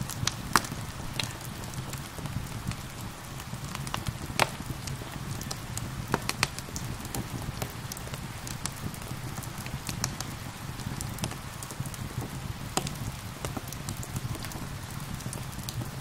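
Wood fire crackling with sharp pops at irregular intervals over steady rain.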